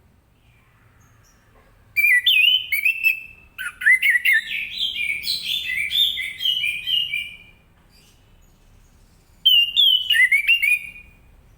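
Orange-headed thrush singing in three bouts of quick, varied rising and falling notes: a short phrase about two seconds in, a long continuous one lasting about four seconds, and another short phrase near the end.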